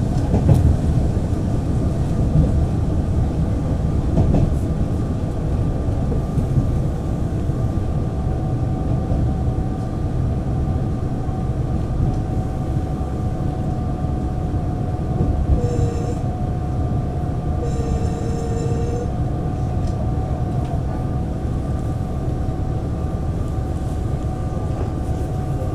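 Taiwan Railways DR3000 diesel multiple unit running at speed: a steady rumble of wheels and diesel drive with a steady whine over it. About two-thirds of the way through, two short high tones sound, each about a second long and two seconds apart.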